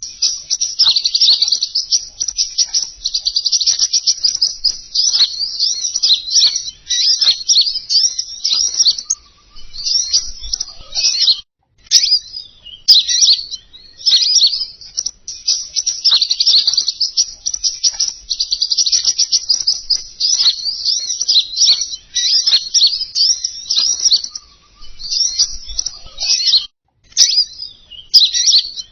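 Recorded bird song used as a trapping lure for the king konin: fast, high, chattering twitters that run almost without a break. There are a couple of short pauses, and a few sharp clicks near the middle and near the end.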